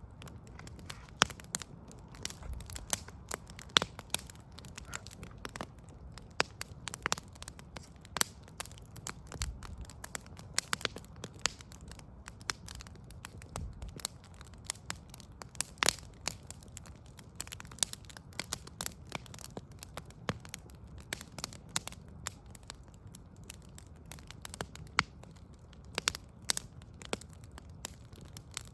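Wood fire of burning logs crackling, with frequent irregular sharp pops and snaps over a low steady rumble.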